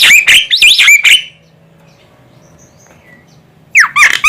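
Javan myna (jalak kebo) calling: a rapid run of loud whistled notes sweeping up and down, stopping after about a second, then a second short burst near the end.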